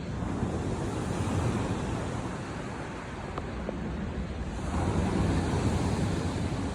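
Sea waves washing onto the shore, swelling about a second in and again from about five seconds in, with wind buffeting the microphone.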